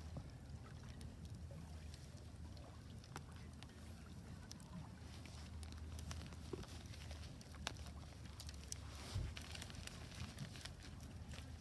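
Wood fire burning in a Solo Stove Ranger fire pit, with scattered sharp pops and crackles over a steady low rumble.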